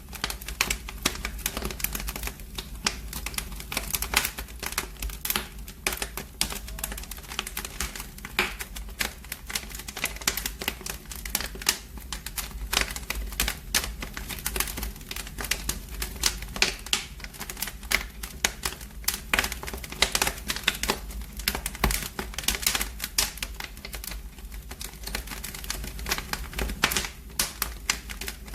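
Wood fire in a fireplace crackling: dense, irregular pops and snaps over a low, steady rumble.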